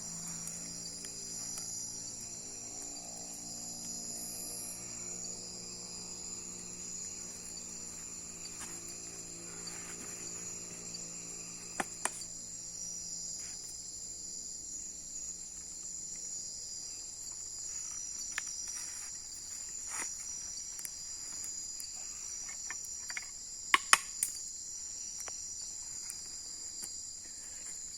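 Night insects, crickets, trilling in a steady high chorus. A few sharp snaps cut through it, the loudest two close together near the end.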